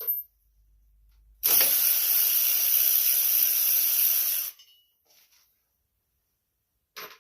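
A ratchet wrench spun quickly to run out a 5/16 bolt: a loud, even rasping run of clicks lasting about three seconds, starting about a second and a half in.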